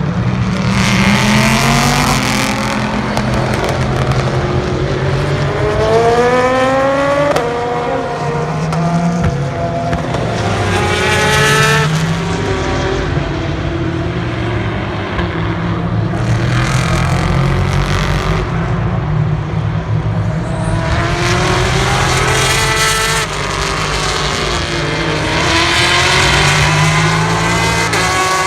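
Several race cars going past one after another, their engines revving up through the gears with sharp upshifts, each swelling and fading as it passes.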